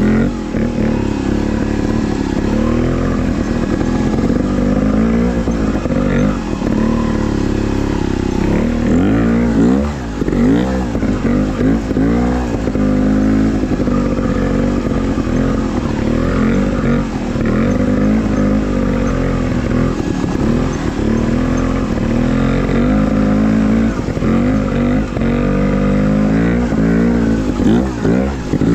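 Trials dirt bike engine revving up and down over and over in short throttle blips, the pitch rising and falling every second or so.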